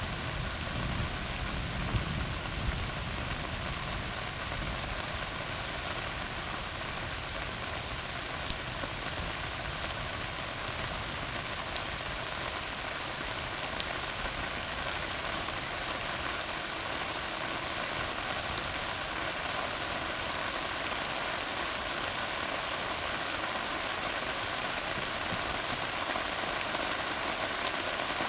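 Steady rain falling on a tar road, with scattered sharp ticks of single drops. A low rumble in the first few seconds fades away.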